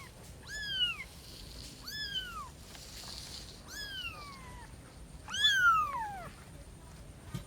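A kitten meowing four times, high-pitched calls that rise briefly and then fall, the last one longest and loudest.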